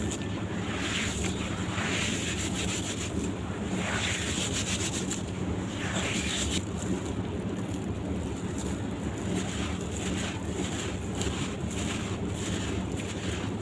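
Soft sand-cement blocks crumbling in water: a steady rushing hiss with repeated soft crunches.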